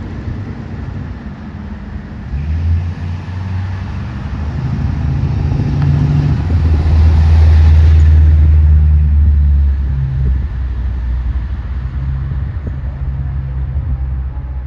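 Fire engine running as it drives past, a low engine rumble that grows louder to a peak about seven to eight seconds in, then eases off.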